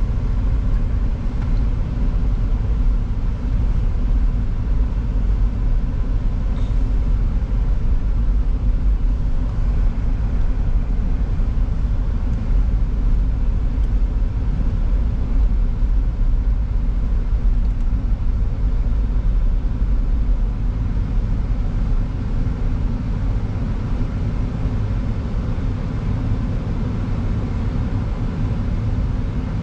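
Nissan Xterra's engine running, a steady low rumble heard from inside the cab.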